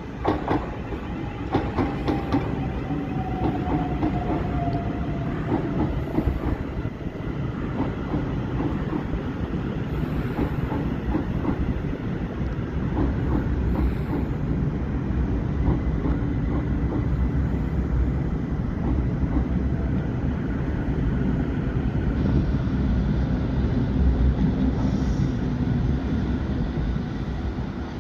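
Electric multiple-unit passenger trains, a Southern Class 377 and then Thameslink Class 700s, running on the tracks below: a steady rumble of steel wheels on rail, with clicks over the rail joints and a falling whine in the first few seconds.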